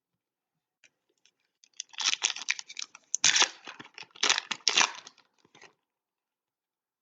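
Trading-card packaging being torn open and crinkled in a run of rustling, crackling bursts that start about two seconds in and die away shortly before the end.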